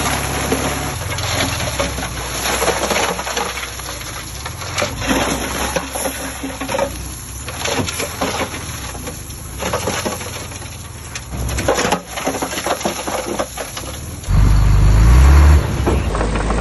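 Earth-moving machinery at work: an irregular crunching and clattering, like soil and stones shifting, over a low diesel engine hum. A little past fourteen seconds in, a heavy diesel engine revs up loudly for about a second and a half, then settles to a steady low run.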